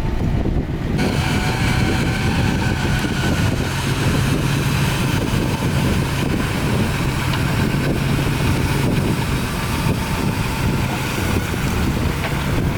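Heavy diesel earthmoving machinery running steadily under load, with a higher whine joining about a second in, and wind buffeting the microphone.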